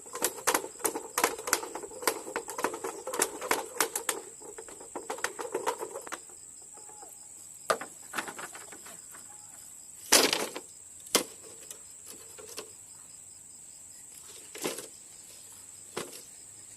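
Rapid clattering knocks for about six seconds, then a few single knocks spaced out, the loudest about ten seconds in, over the steady high drone of insects.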